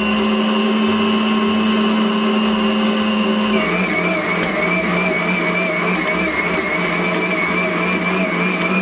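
KitchenAid stand mixer running steadily, mixing bread dough with a loud motor whine; its pitch drops a little about three and a half seconds in and wavers slightly after that.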